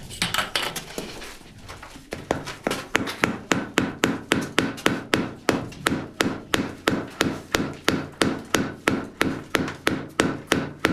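Rapid, regular hammer blows, about three a second, starting about two seconds in.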